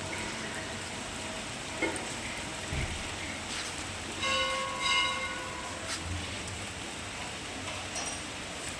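Steady hiss of falling rain, with a horn sounding for about a second around the middle.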